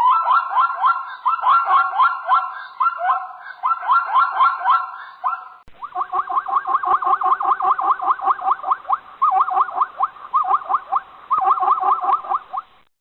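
An animal calling in a fast series of short, high chirps, several a second. About halfway through it switches abruptly to a second recording of similar chirping.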